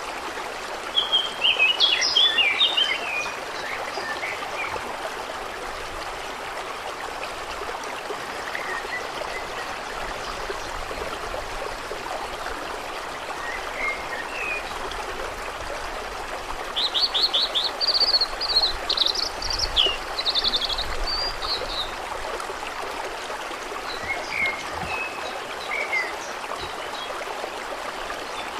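Water trickling and flowing steadily, with birds chirping over it: a short burst of calls about two seconds in, a longer run of rapid chirps and trills a little past halfway, and a few scattered single chirps.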